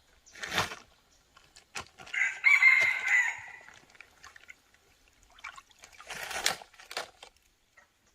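A rooster crows once: a drawn-out call of about a second and a half, the loudest sound here. Short rustles and knocks come before and after it.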